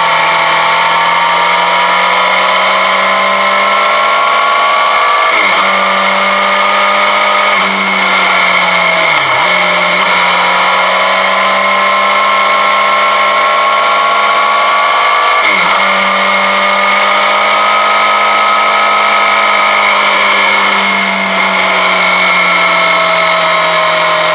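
Motorcycle engine running at road speed, its pitch climbing slowly and dropping back sharply a few times.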